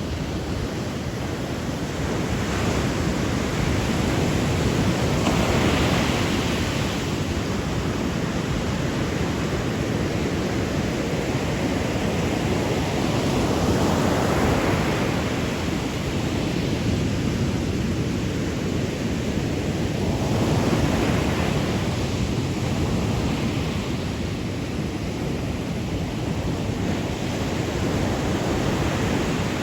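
Sea waves washing ashore at night, a continuous rush of surf that swells and falls back every several seconds as each wave breaks.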